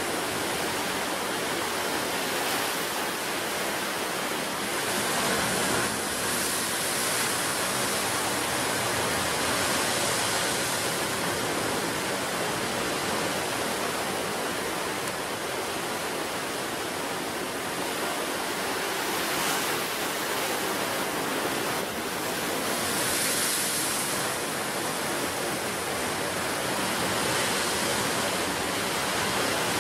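Ocean surf on a rocky, rough coast: a dense steady wash of waves that swells louder every several seconds as waves break.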